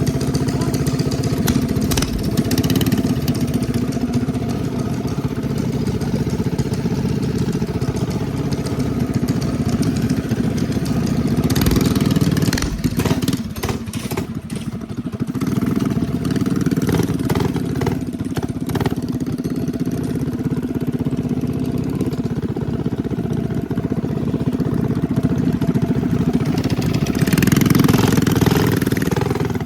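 Small single-cylinder minibike engine, 212cc class, running steadily. About halfway through its sound dips and breaks up with a few clicks and clatters, and it grows louder near the end.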